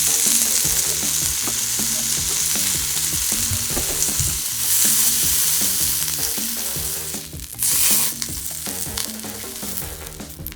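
Slices of Korean Hanwoo beef sizzling in fat on a hot grill, a dense steady crackle. It thins out about seven seconds in, with a brief louder surge of sizzle just before that.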